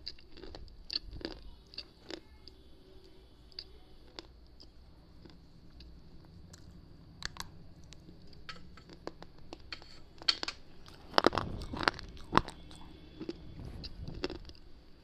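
Close-miked crunching and chewing of hard, brittle slate-pencil and clay-pot pieces, with a wired microphone held at the lips. Scattered crisp crunches throughout, with a flurry of louder ones about two-thirds of the way in.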